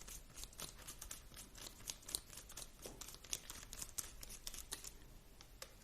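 Faint, irregular small clicks and ticks of hands working screws and plastic parts on a 1/16 scale RC drift car during disassembly.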